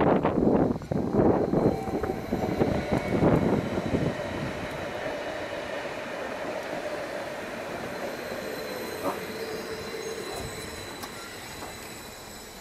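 A Stadler FLIRT electric multiple unit passes close by, its wheels clattering loudly over the track for about four seconds. It then fades away into a dying rumble, with a thin high squeal lingering as it recedes.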